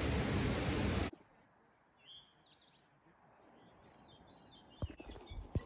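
A loud steady rushing hiss cuts off abruptly about a second in. Then songbirds chirp and warble in the forest, with two dull knocks near the end.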